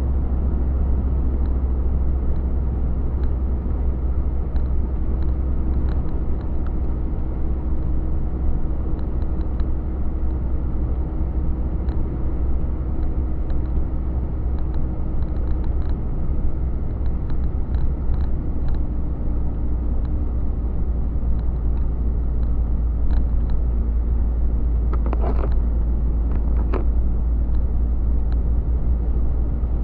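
Truck driving on the highway: a steady low engine drone and road rumble, with a couple of brief knocks near the end.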